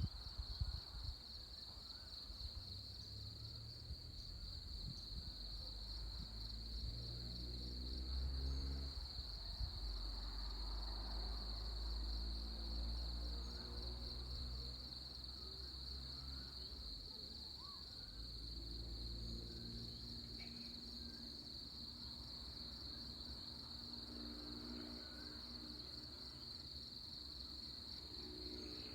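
Steady, high-pitched chorus of insects such as crickets, with a low rumble underneath and a few faint bird chirps.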